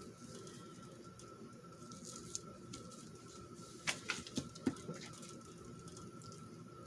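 Paper craft pieces being handled and placed on a journal cover: soft rustling, then a few light taps and clicks about four seconds in, over a faint steady high-pitched hum.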